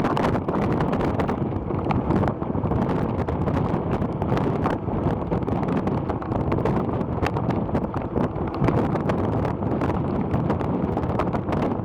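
Wind buffeting the microphone: a steady, fairly loud low rush without any clear tone.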